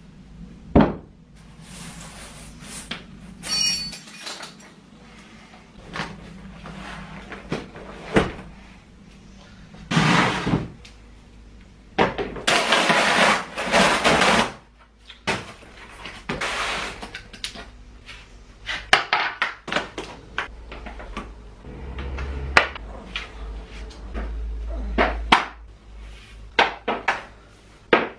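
Handling the parts of a flat-pack chrome chest of drawers: a series of knocks, clatters and clicks, with a few longer noisy stretches of a second or two, the longest about twelve to fourteen seconds in.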